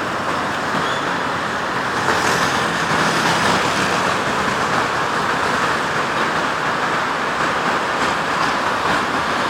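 Steady road traffic noise from vehicles passing on a city road, a little louder from about two seconds in.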